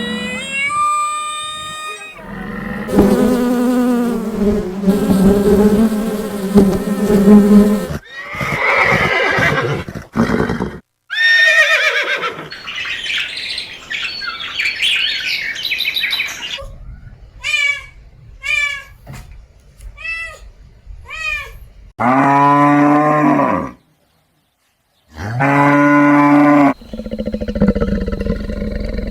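A series of different animal calls played one after another: longer calls first, then a run of about seven short repeated calls, then two long, low calls near the end.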